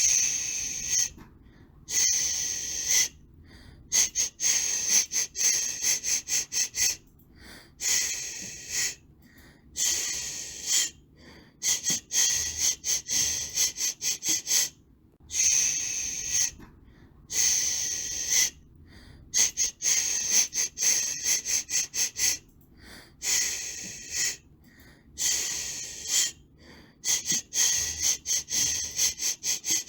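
White-noise hiss in a shushing pattern: bursts of high hiss that start and stop every second or so, some long, some in quick runs of short pulses, with brief silences between.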